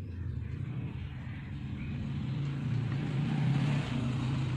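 A motor vehicle engine running steadily, growing louder to a peak a little past the middle, then easing slightly.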